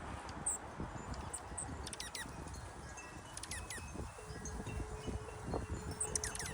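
Small wild birds chirping: short high chirps and a few quick calls that sweep steeply down in pitch, over a steady background rush. A faint steady low tone joins about four seconds in.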